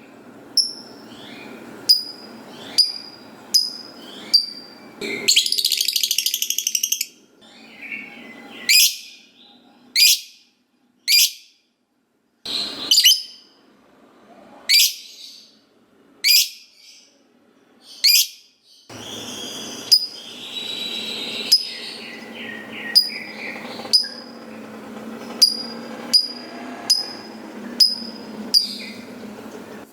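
Lovebird calling: short, sharp, high chirps repeating about once a second, broken by a rapid chattering trill (the 'ngekek' call) about five seconds in and more chatter around twenty seconds in.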